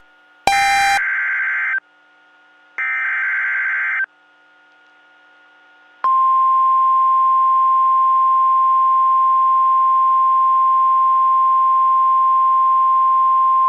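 Emergency Alert System SAME header data bursts from NOAA Weather Radio: two harsh, buzzing bursts about a second apart. After a short pause, the steady single-pitch 1050 Hz warning alarm tone starts about six seconds in and holds. Together they signal the start of a new warning broadcast.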